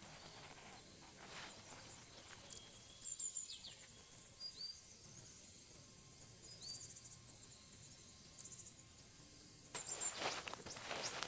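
Faint outdoor ambience with scattered short, high bird chirps, and a louder burst of rustling near the end.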